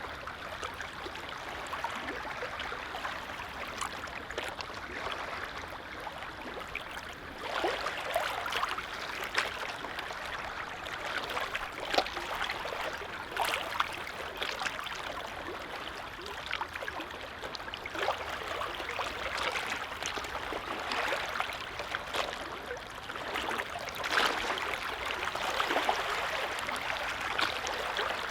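Small waves on a calm lake lapping and splashing, irregular soft splashes over a steady watery wash.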